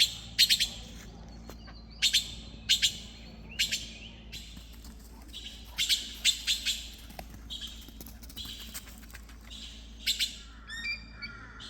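Red-billed blue magpies calling: short groups of harsh, rasping notes, repeated every second or two, with a quick run of short whistled notes near the end.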